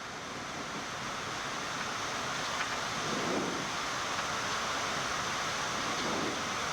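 Steady rushing of airflow and air-conditioning noise in a Boeing 787 cockpit on short final approach, growing slightly louder over the first few seconds.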